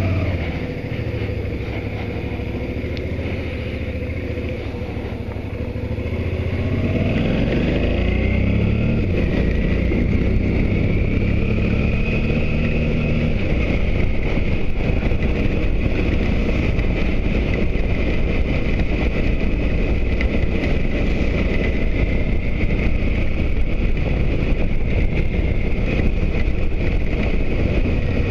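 Motorcycle engine running, then rising in pitch as it speeds up about six to nine seconds in, and running steadily at speed after that.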